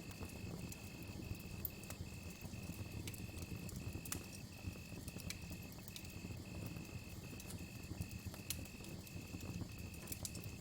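Campfire crackling, with sharp irregular pops over a low rumble of burning. Behind it a cricket trills on one high pitch, with brief breaks nearly twice a second.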